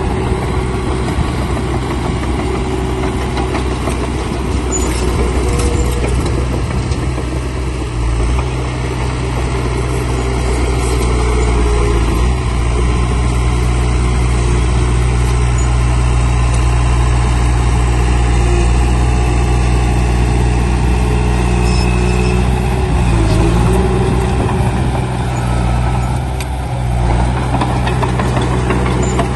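Heavy diesel engine of earth-moving machinery running steadily under load, its note shifting briefly about eight seconds in and again near the end.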